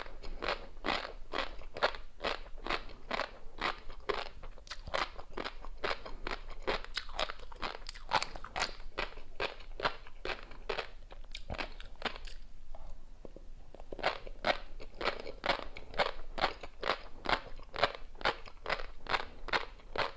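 A person chewing a mouthful of tobiko (flying fish roe) with crunchy seafood topping close to the microphone: even, crisp crunches about two to three a second, pausing briefly a little past halfway before resuming.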